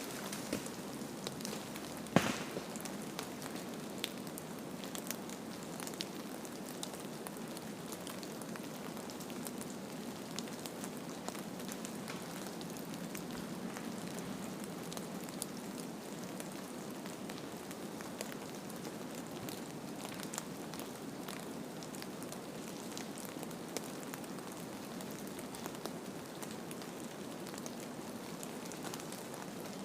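A steady ambient hiss, like rain patter, with scattered small crackles and ticks and one sharper click about two seconds in.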